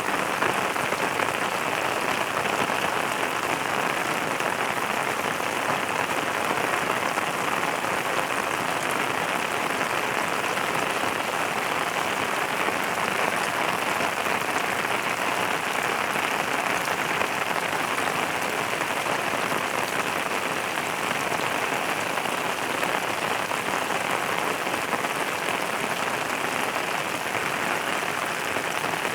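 Steady rain falling and pattering on a surface, an even hiss at a constant level.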